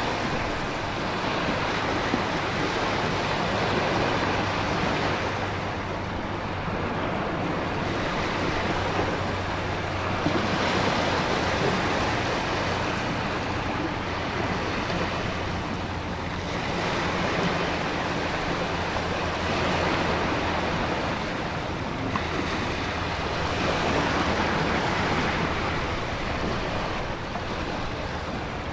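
Storm ambience: a continuous rush of surf and wind, swelling and easing every few seconds as waves break.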